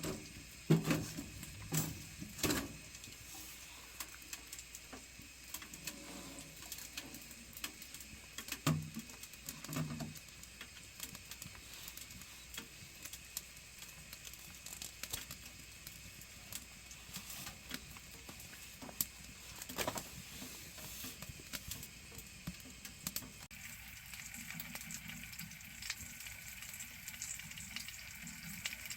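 Firewood burning in a wood stove, crackling and popping: scattered sharp pops over a low steady hiss.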